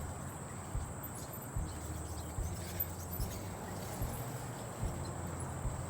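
Bicycle rolling along with a low rumble and short knocks about every half second. A steady high insect buzz sounds underneath.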